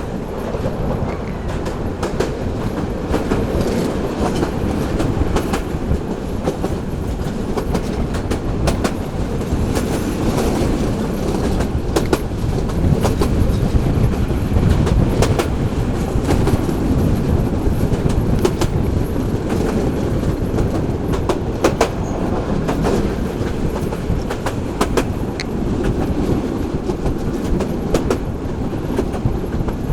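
Local passenger train running along the track: a steady, loud rumble with frequent sharp clicks of the wheels over rail joints.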